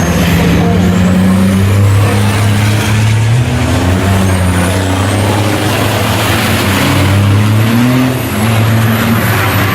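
Race trucks' turbodiesel engines running hard on the circuit, a deep engine note that rises and falls as they change speed and gear, with thin high whistles gliding in pitch above it.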